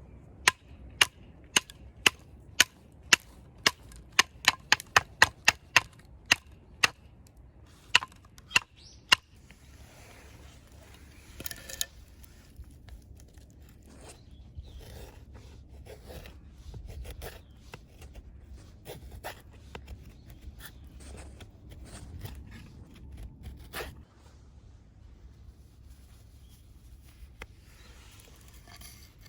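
A run of sharp knocks, about two a second for the first nine seconds and bunched closer together in the middle, then quieter scattered knocks and scraping.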